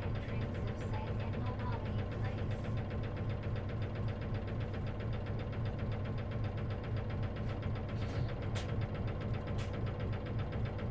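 Isuzu KC-LV380N city bus's diesel engine running, heard from inside the cabin. It makes a steady, regular knocking noise that the uploader takes for an abnormal noise that may occur in manual-transmission buses. A few short sharp clicks come near the end.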